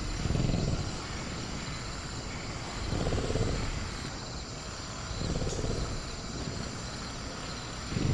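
Velociraptor creature sound effect: low, rumbling growls that swell and fade about every two and a half seconds, over a faint steady chirring of night insects.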